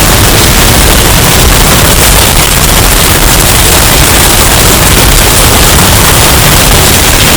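Hurricane wind sound effect, bass boosted and driven into heavy clipping distortion: a steady, loud wall of noise, strongest in the bass, with no gusts or other events standing out.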